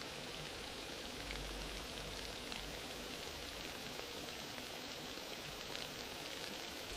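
Wood fire crackling in a fireplace: a steady soft hiss dotted with many small, irregular pops and snaps.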